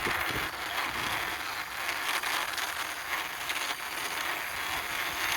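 Plastic wheels of a toy double-decker bus rolling along a surface as it is pushed by hand: a steady rolling noise, with a couple of light knocks at the start.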